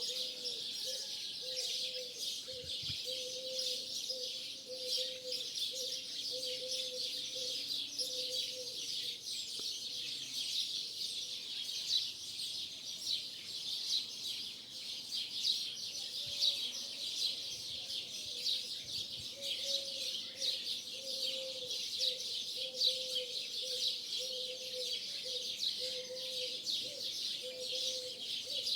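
A flock of starlings chirping and chattering in a dense, continuous dawn chorus. Beneath it a low note repeats about once a second through much of the stretch.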